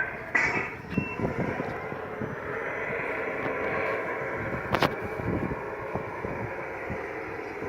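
Truck engine running steadily under load, a dense rumble, with one sharp click a little under five seconds in.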